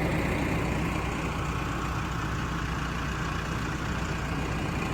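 A vehicle engine idling steadily with a low, even drone.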